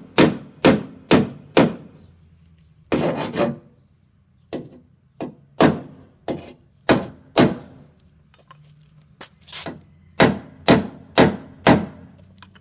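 Hammer blows on the truck's sheet-metal bedside while working out the dent, coming in runs of about two blows a second with pauses between the runs. A short scraping sound comes about three seconds in.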